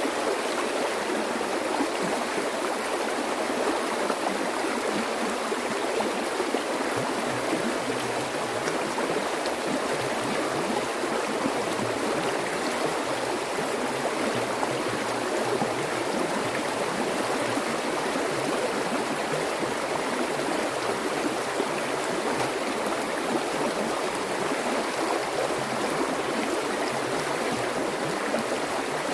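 Water flowing steadily in a stream, a continuous even rush.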